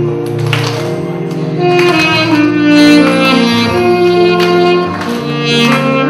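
Saxophone playing a melody of held notes over a sustained chordal accompaniment.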